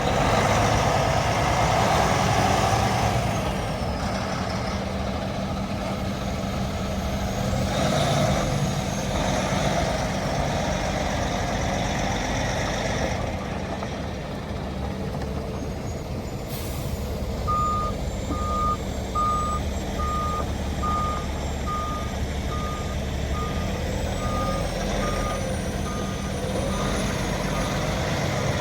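Heavy truck's Detroit diesel engine running steadily. Just past the middle a short hiss of air, then a reversing beeper starts, beeping evenly about one and a half times a second.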